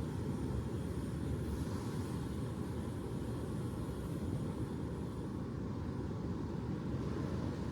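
Steady low rumble of ocean surf, with a slight rise in hiss about a second and a half in.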